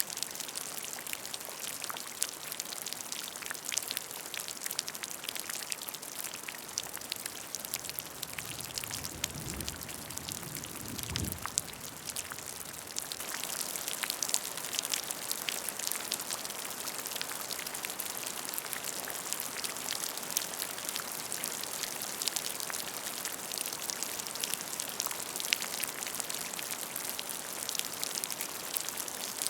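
Steady rain falling into a puddle, with dense, close drop patter and splashes. About a third of the way through, a brief low rumble rises under it.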